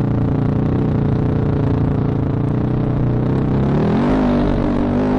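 Sherco 4.5i dirt bike's single-cylinder four-stroke engine running at a steady pitch while ridden, then revving up about four seconds in and holding the higher note.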